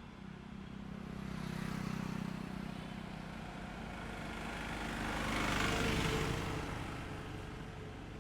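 Road vehicles passing on a highway. One with a low engine hum swells and fades about two seconds in, then a louder one with tyre noise passes by about six seconds in.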